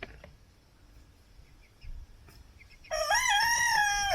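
A cockerel crowing once near the end: a single drawn-out call that rises at the start and then holds steady for about a second.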